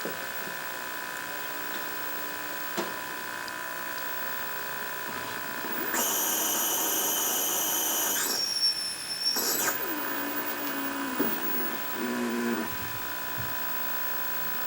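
1963 Philco Courier portable TV set, running with a steady electrical buzz. About six seconds in, a loud, shrill whistle with several overtones comes in and steps down in pitch partway through, then cuts off after about four seconds. This is the horizontal oscillator being pulled off frequency as the horizontal hold is adjusted. Lower wavering tones follow for a couple of seconds.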